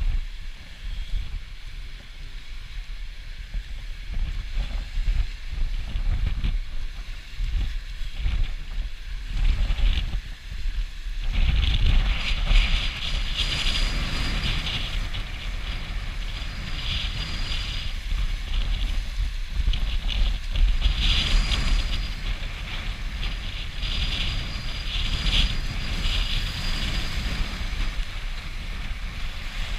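Storm wind buffeting the microphone as river waves wash and splash against a boat launch. The splashing grows louder about eleven seconds in and then comes in repeated surges.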